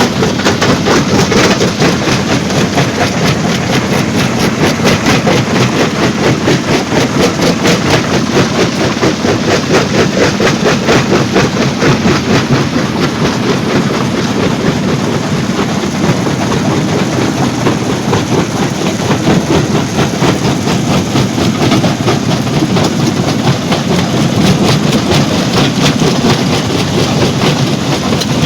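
Stone-crushing plant machinery running under load: a loud, steady, fast clatter of rock and metal that goes on without a break.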